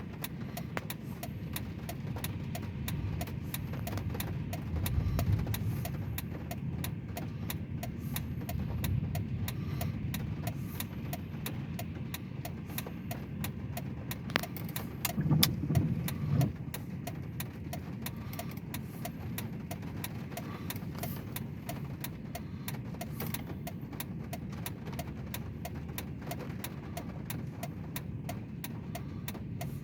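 Car running on the road, heard from inside the cabin: a steady low rumble with a rapid, even ticking over it, and two louder low swells about five seconds and about fifteen seconds in.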